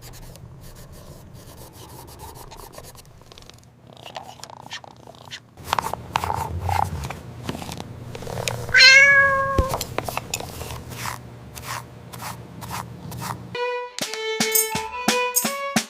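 A cat purring steadily with scattered clicks over it, and a single meow about nine seconds in. Plucked-string music starts near the end.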